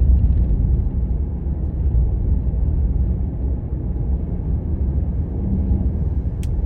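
Steady low rumble of engine and road noise inside a moving vehicle's cab at highway speed, with a single short click near the end.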